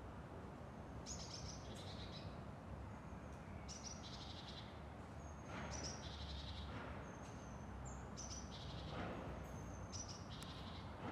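Birds chirping, short high calls repeating every second or so over a faint, steady outdoor background noise.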